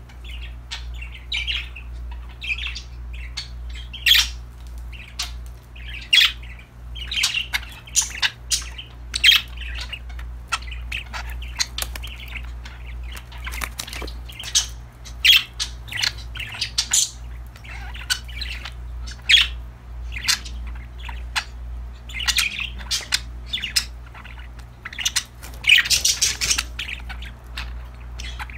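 Several budgerigars chirping and squawking, a busy run of short, sharp high calls with barely a pause between them, over a steady low hum.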